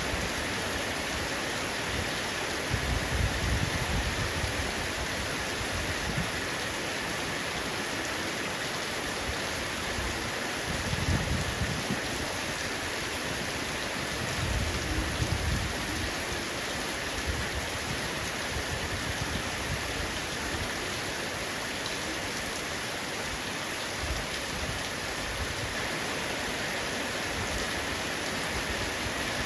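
Heavy rain falling steadily on a roof, an even hiss of drops, with a few brief low rumbles about three, eleven and fifteen seconds in.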